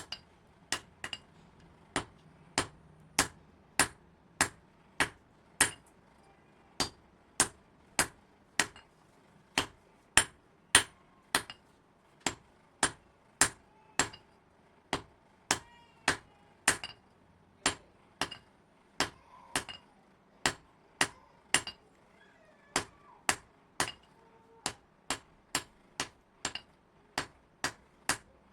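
Blacksmith's hand hammer striking metal in a steady rhythm of sharp, ringing blows, a little under two a second.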